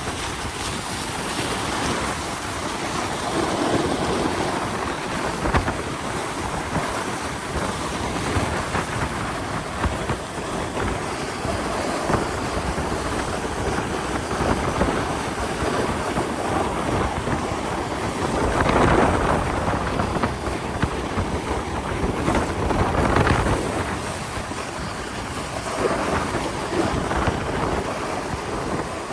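Wind rushing over the microphone with a steady rumbling, scraping noise of fast travel over snow, swelling louder a few times, as of a sled running down a long snowy track.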